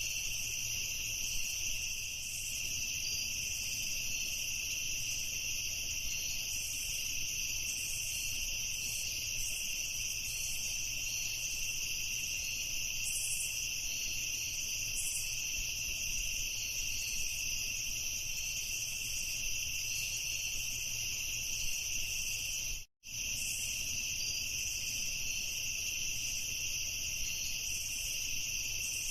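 A chorus of crickets chirping steadily in two high-pitched bands, over a faint low hum. The sound cuts out completely for an instant about three-quarters of the way through, then resumes unchanged.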